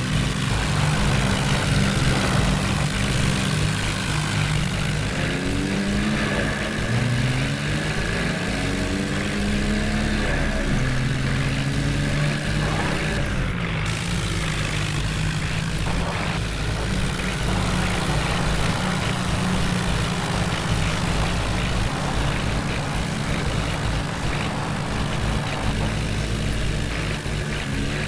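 Heavy diesel engine running steadily, revving up and down several times in the first half and again near the end.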